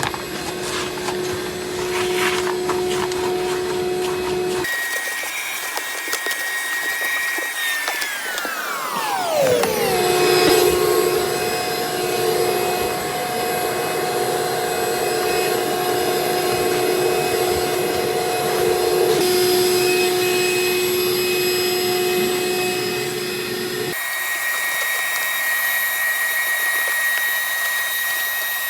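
Vacuum cleaner running, a steady motor whine over a hiss of rushing air. The pitch jumps suddenly a few times and slides down about a third of the way in and again at the very end.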